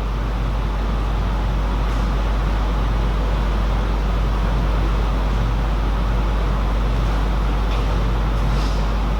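Steady low hum and hiss of background noise, with a few faint short ticks.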